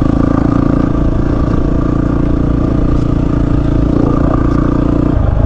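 Single-cylinder dual sport motorcycle engine running steadily under load while riding through deep sand.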